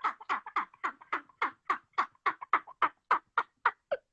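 A man laughing hard in rhythmic cackling bursts, about four a second, that taper off near the end.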